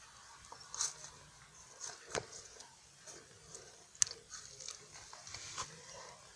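Close-miked eating: a flaky French Pie pastry being bitten and chewed, with irregular small crunches and crackles and a few sharper ones about one, two and four seconds in.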